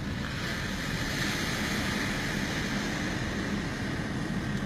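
Steady rushing noise of sea waves and wind.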